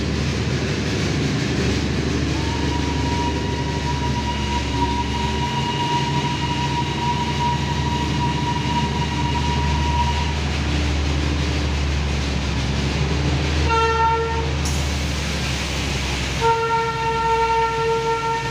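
Darjeeling Himalayan Railway toy train running with a steady low rumble, heard from aboard a coach, with a thin steady whine for several seconds in the first half. The diesel locomotive's horn gives a short blast a little after the middle and a long blast over the last two seconds.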